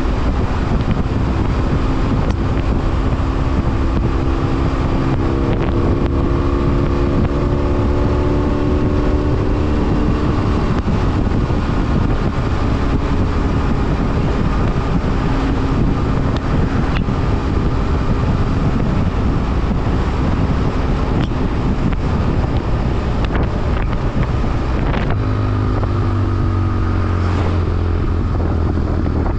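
BMW F800R parallel-twin motorcycle engine running under way, with heavy wind rush over the microphone. The engine note rises slowly during the first ten seconds or so, holds steady, then near the end a deeper engine note comes in with the pitch falling.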